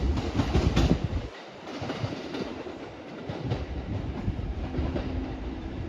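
Kintetsu electric train moving through the station, its wheels clacking over rail joints. The loud rumble drops away about a second in, leaving a quieter, steady running noise.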